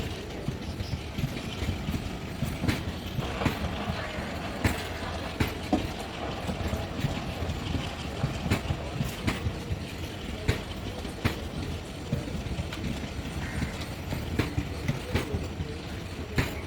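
A goods train rolling slowly along the track, with a steady low rumble and sharp clicks every half second to a second as the wheels pass over rail joints.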